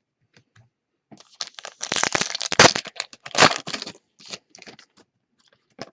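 Foil trading-card pack wrapper being torn open and crumpled: a dense crinkling, crackling burst lasting a few seconds, followed by a few small clicks and rustles.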